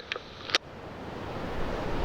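Wind rumbling on the microphone with surf behind it, growing louder toward the end. About half a second in, a single sharp click as the marine VHF radio's squelch closes after a transmission.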